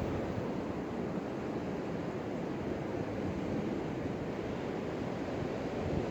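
Wind blowing across a phone's microphone: a steady, low rumbling noise.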